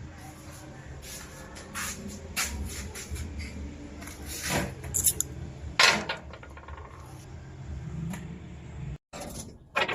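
Irregular knocks, taps and short scrapes of tools working wood, over a steady low hum. The sound cuts out briefly near the end.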